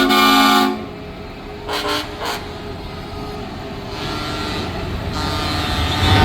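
Multi-tone truck air horn sounding as a chord, cutting off under a second in, followed by two short toots about two seconds in. Underneath is a steady low rumble, and horn tones swell up again near the end.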